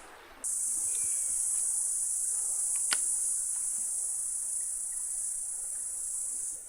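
Loud, steady high-pitched insect drone that starts abruptly about half a second in, with one sharp click about three seconds in.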